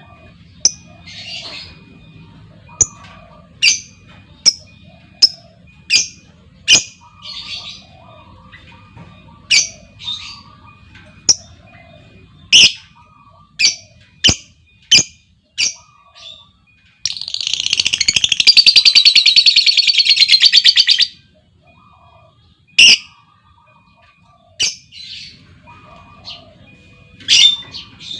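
Lovebird calling: sharp, short chirps about once a second. A little past halfway comes a loud, rapid chattering trill lasting about four seconds, the long 'ngekek' chatter.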